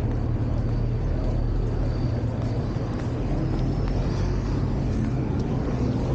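Steady, loud low hum with a faint thin high whine above it, like a running vehicle engine.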